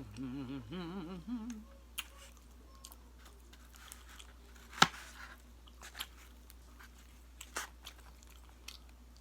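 A woman humming with a wavering pitch for the first second and a half, then chewing food with her mouth close to the microphone, broken by a few sharp clicks, the loudest about halfway through.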